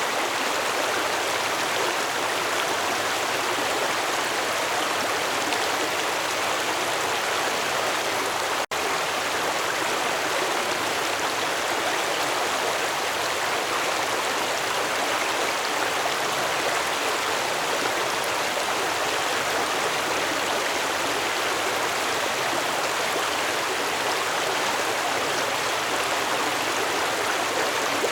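Stream water flowing and rushing steadily over rocks, an even, unbroken splashing babble. It drops out for a split second about nine seconds in.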